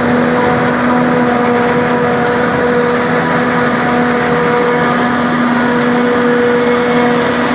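Claas Jaguar 870 self-propelled forage harvester running steadily: a loud, even machine drone with a held hum that does not change.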